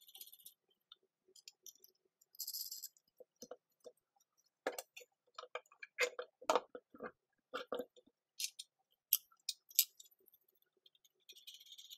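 Irregular light clicks and knocks of small parts being handled at a workbench, busiest in the middle, with a couple of short scraping sounds.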